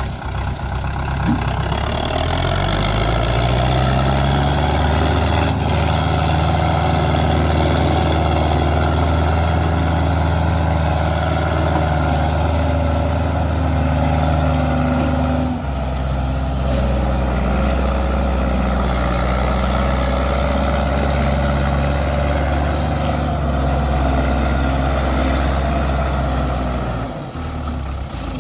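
Belarus 510 tractor's diesel engine revving up over the first few seconds, then held at high revs as it pulls a heavily loaded sugarcane trolley. The pitch shifts about halfway through, and the engine eases off near the end.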